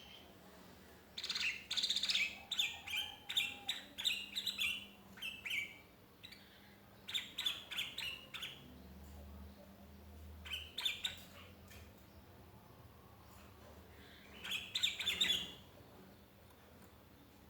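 Sooty-headed bulbul (kutilang), a lone bird calling for companions, singing in four bouts of quick chirping phrases with short pauses between them.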